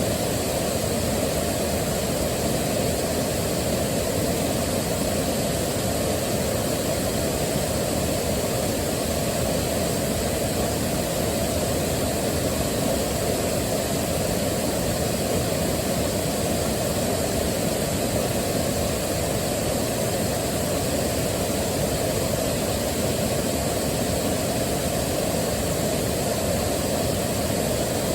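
Waterfall rushing steadily, heard as a deep, even rumble with only a faint hiss above it.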